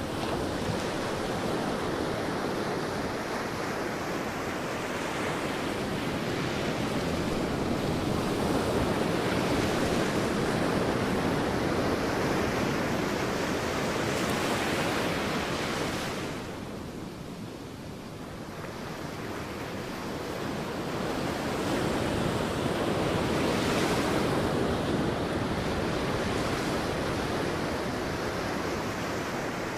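Sea waves breaking on a beach: a continuous rush of surf that swells and eases. It drops back a little over halfway through, then builds again with the next wave.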